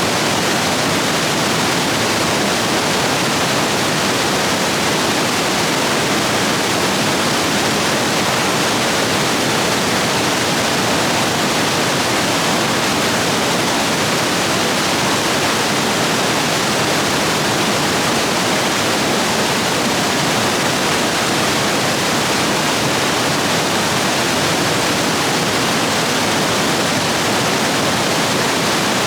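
Rapids of a rain-swollen stream rushing and churning over rocks, a steady, loud roar of water.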